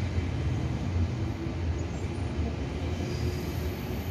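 Taiwan Railway train running with a steady low rumble, heard from aboard as it moves out of an underground station.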